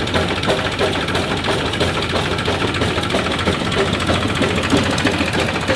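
Powertrac Euro 50 tractor's diesel engine running steadily while driving a chaff cutter, with a dense, rapid clatter.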